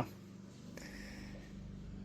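Faint steady low hum: room tone.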